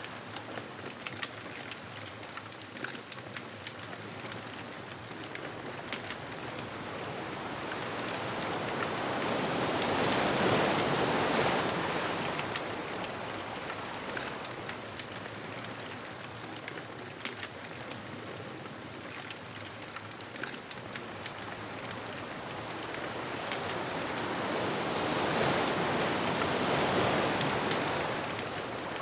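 Ocean waves washing onto a beach, swelling louder twice as sets break, with the small crackles of a bonfire throughout.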